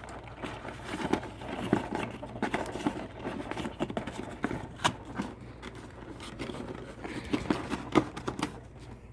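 Cardboard and plastic packaging being handled: irregular rustling, scraping and small clicks as the twist ties holding a boxed RC helicopter are worked loose.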